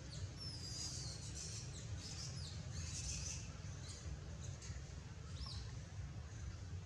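Small birds chirping in short high-pitched calls, with a drawn-out whistle about half a second in, a cluster of chirps around three seconds, and a single chirp near the end, over a steady low hum.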